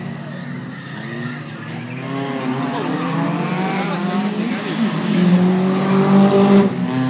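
Subaru Impreza WRX STI's turbocharged flat-four engine accelerating hard past, its note climbing in pitch and growing louder, then dropping sharply and climbing again near the end like a gear change.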